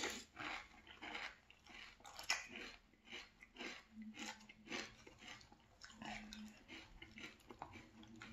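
A person chewing mouthfuls of Frosted Flakes cereal in milk, with crunchy chews about twice a second.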